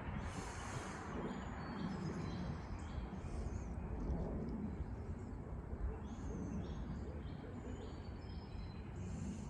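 Barred owls hooting: several low hoots spread across a few seconds, over a steady low background rumble. Faint short high chirps from small birds come and go.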